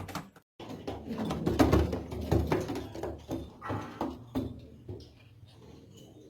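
Domestic pigeons cooing in low repeated pulses, with scattered clicks and knocks. The sound drops out briefly just after the start and grows quieter near the end.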